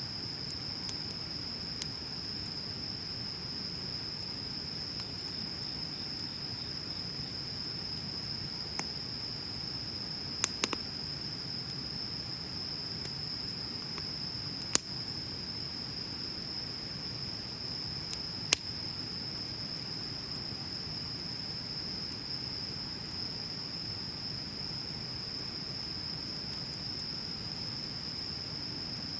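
Wood bonfire burning with a low steady rush and a few sharp crackling pops, the loudest about 15 and 18 seconds in, over a continuous high-pitched insect trill.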